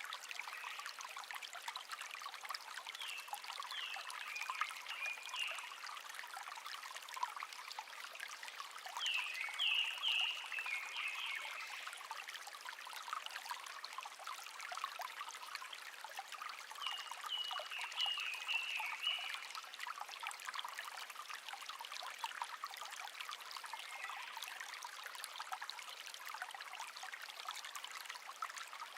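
Small stream babbling and trickling steadily, with a songbird singing short phrases of chirps that step down in pitch, four times at intervals of several seconds.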